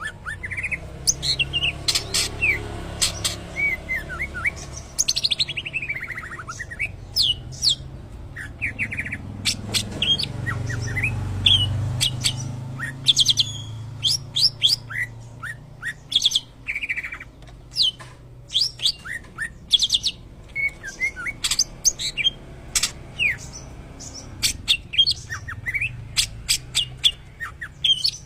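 Green leafbird (cucak ijo) singing a long, varied song of sharp whistles, chirps and quick rising and falling sweeps, with rapid trills, in a white-rumped shama (murai) style.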